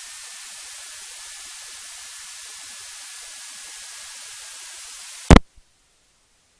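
Steady electronic hiss of a cockpit intercom audio feed, with a faint whine that slowly falls in pitch, cut off by one loud click about five seconds in, after which the feed goes dead.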